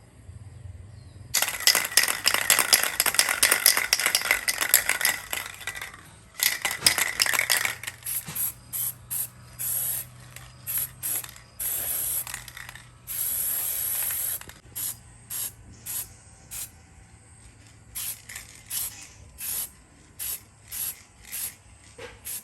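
Hands-on work cleaning an old electric fan: several seconds of rapid scraping strokes starting just over a second in, then a run of short hissing bursts, about one or two a second.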